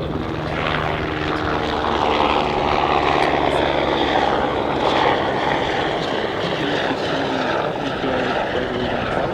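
Eurocopter AS350BA Squirrel helicopters flying in a display, with a steady turbine whine and rotor noise.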